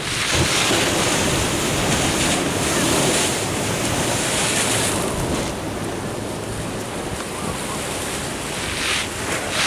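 Ocean waves surging and washing at the shore, with wind buffeting the microphone. The wash is loudest over the first five seconds, then eases off.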